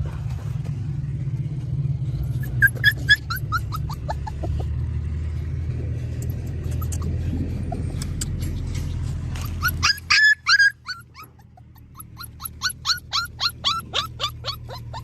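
A puppy yelping and whimpering in runs of short high cries, each falling in pitch, over a low rumble of traffic. The rumble stops suddenly about ten seconds in, and a fast run of yelps follows, about three a second.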